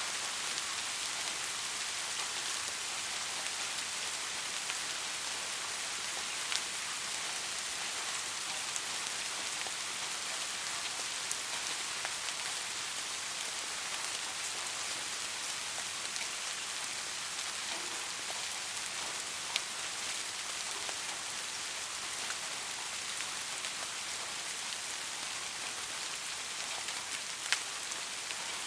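Steady rain falling in an even hiss, with a few sharper single drops ticking now and then.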